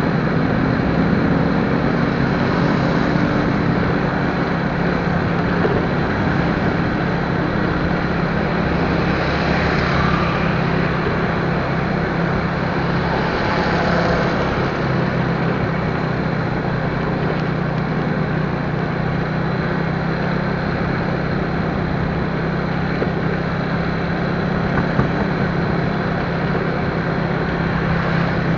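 Motorcycle engine running at a steady cruise while riding, mixed with steady road and wind noise.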